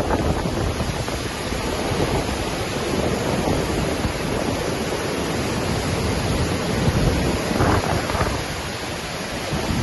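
Waterfall crashing steadily, a constant rush of falling water with no breaks.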